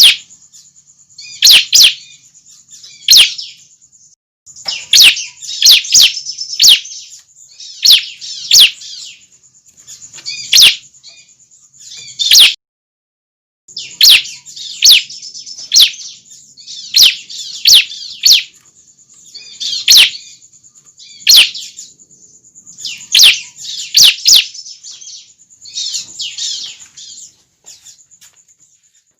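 Juvenile bar-winged prinias (ciblek) calling: loud, sharp, high chirps in quick clusters about once a second over a steady high buzzing trill. It breaks off into silence briefly twice, early and about halfway.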